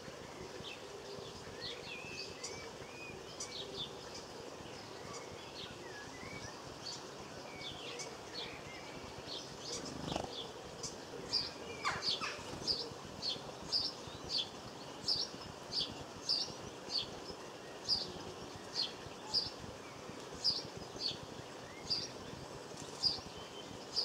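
Small garden birds calling: scattered chirps and short whistles, then from about halfway a sharp, high call note repeated about once or twice a second.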